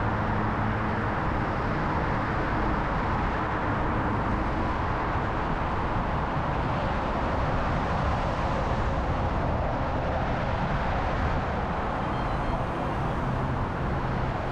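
Steady city street traffic noise with vehicle engines running close by: a continuous rushing noise with a low engine hum that comes and goes.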